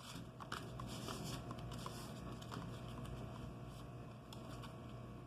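Faint rustling and crinkling of a sheet of paper being folded and creased into a paper airplane's wings, over a steady low hum.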